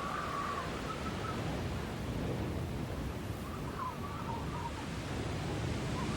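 Steady, deep snowstorm wind with a hissing top. A bird calls faintly at the very start and again about four seconds in.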